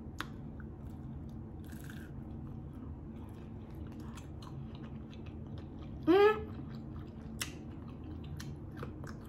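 Close-miked chewing of a mouthful of chicken and cheese quesadilla, with many small wet mouth clicks. A brief rising vocal hum comes from the eater about six seconds in.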